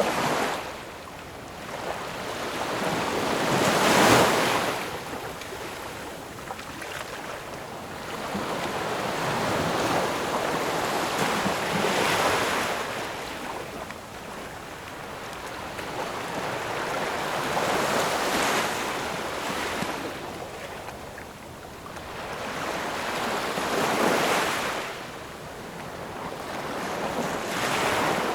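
Ocean waves breaking and washing up the shore in slow surges about every six seconds, the loudest about four seconds in, each swelling and then fading into a steady wash.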